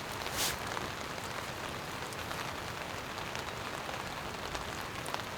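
Steady rain falling, with scattered drips ticking and a brief rustle about half a second in.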